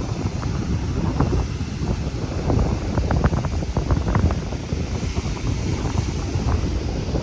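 Wind buffeting the microphone in uneven gusts, over the rush of ocean surf.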